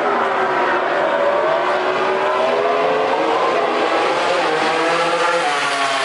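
Aprilia RS-GP MotoGP racing motorcycle's V4 engine running hard at high revs. Its pitch slides down in the first second or two, then climbs again.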